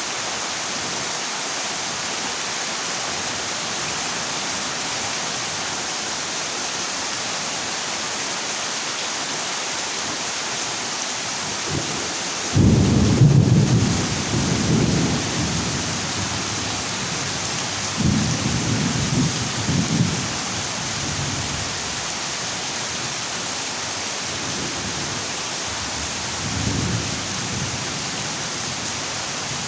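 Heavy rain hissing steadily on a corrugated zinc roof during a thunderstorm. A thunderclap breaks in about twelve seconds in and rumbles for a few seconds as the loudest sound; a second rumble comes around eighteen seconds, and a faint one near the end.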